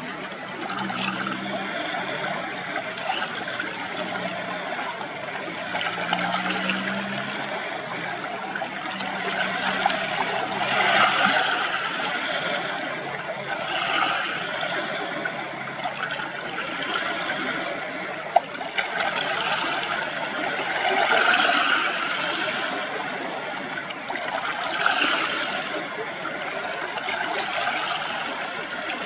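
Small sea waves washing against the shore, the wash swelling and easing every few seconds.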